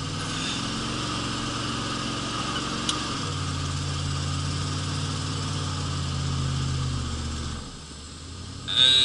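1983 Pontiac Trans Am's 305 small-block V8 running. Its note shifts about three seconds in and drops quieter shortly before the end.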